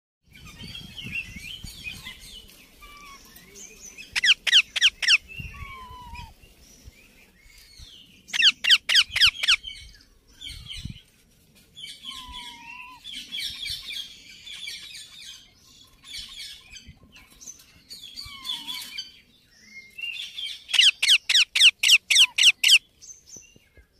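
Baby Indian ringneck parrot calling: soft chattering chirps, broken three times by a run of loud, sharp, falling squawks at about eight a second. The longest run comes near the end.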